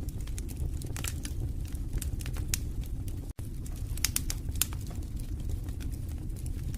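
Wood fire burning in a fireplace: irregular sharp crackles and pops over a steady low noise from the flames. The sound drops out for an instant about halfway through.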